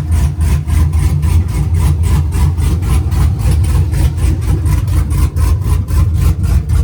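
Cammed 5.3-litre V8 in a Chevy Tahoe idling on open headers with no exhaust fitted: a loud, deep, rapidly pulsing idle.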